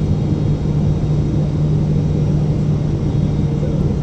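Boeing 777-300ER cabin noise in flight: a steady drone of the engines and airflow, with a strong low hum.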